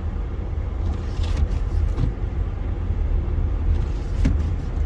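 Road noise inside a car driving on a snowy highway: a steady low rumble of engine and tyres, with a few faint clicks.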